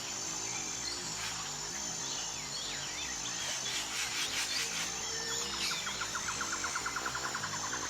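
Songbirds chirping, with scattered quick chirps in the middle and a rapid trill of about ten notes a second starting about five seconds in, over a steady high-pitched whine and soft background music.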